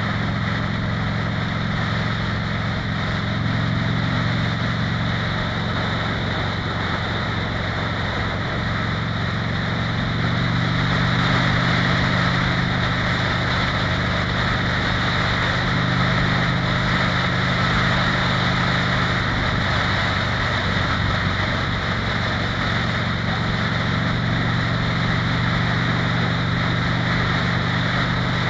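Harley-Davidson V-twin motorcycle engine running at a steady cruising speed, heard from the rider's seat, with wind and tyre rush over it. The engine gets slightly louder about ten seconds in.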